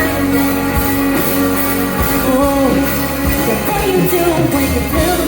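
Live band music: a woman singing over guitar and drums, with drum hits about once a second.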